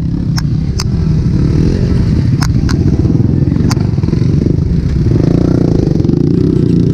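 Motorcycle engine running steadily under way, with several sharp clicks and knocks over the first four seconds.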